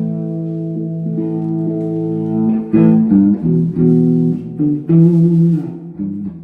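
Electric guitar playing: a held chord ringing for about two and a half seconds, then a run of single notes with a bent, wavering note about five seconds in.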